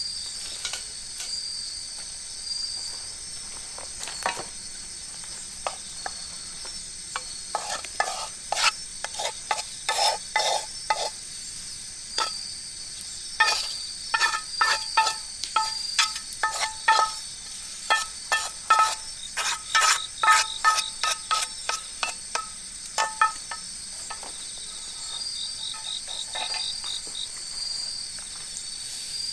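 A metal utensil stirring in a metal pot, giving many quick clinks and scrapes, each with a short ring, busiest in the middle stretch. Steady cricket-like insect chirping runs underneath.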